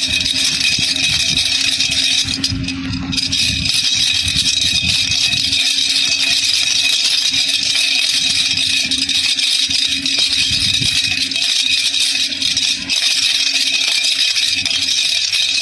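Baby rattle (jhunjhuna) shaken continuously, a dense, fast rattling of small beads inside, with a short break about two and a half seconds in.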